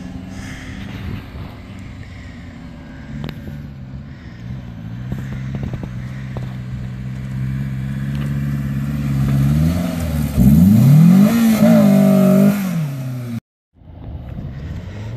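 Honda S2000 four-cylinder engine in a DP Escape trials car, running steadily as the car drives over grass, then revving hard with the pitch rising and falling several times about ten seconds in, the loudest part. The sound cuts out abruptly for a moment near the end, then the engine is heard again.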